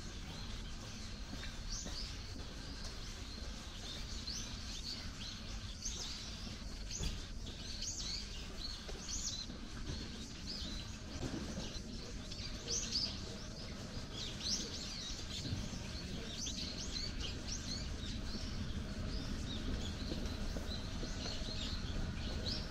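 Small birds chirping, a dense run of short high chirps repeating throughout, over a steady low rumble of background noise.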